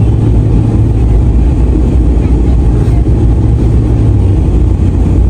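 Snow-plow truck's engine running steadily with a low, even rumble during plowing.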